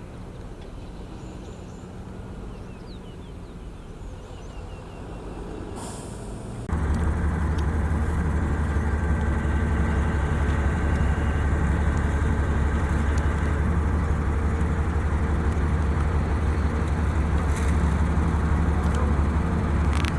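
Diesel engine of a heavy road-building machine running steadily. About seven seconds in it suddenly becomes much louder and deeper, and stays that way.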